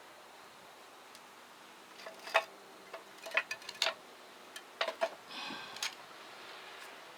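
A quick series of sharp clicks and knocks, some with a short ring, and a brief hiss near the end.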